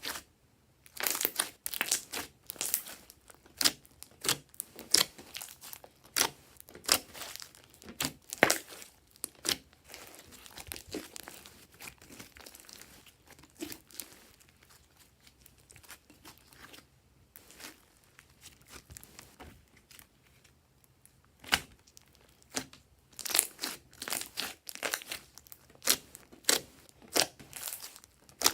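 Glossy slime being squeezed and stretched by hand, making rapid sticky clicks and pops. It gets sparser and quieter for about ten seconds in the middle, then picks up again.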